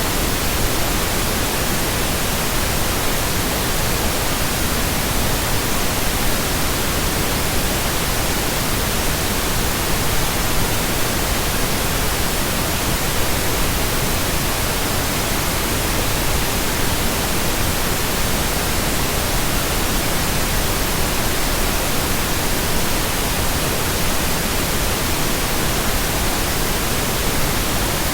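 Steady computer-generated pink noise: an even, unbroken hiss with no changes in level or pitch.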